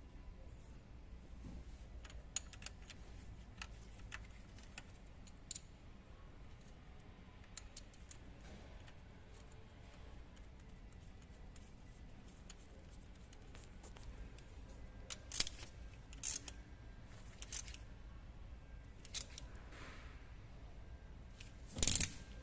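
Scattered light metallic clicks and clinks of hand tools and engine parts being handled, with a few sharper clinks in the second half and the loudest near the end, over a low steady hum.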